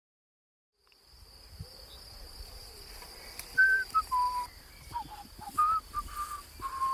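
Outdoor garden ambience with birdsong: after about a second of silence, a bird whistles a series of short, clear notes, the loudest a little past the midpoint, over a steady faint high-pitched tone.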